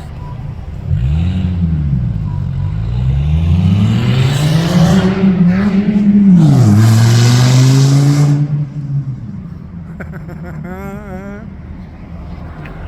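A car engine revving hard as it accelerates past, climbing in pitch, dropping sharply at a gear change, then fading away. A brief warbling tone follows near the end.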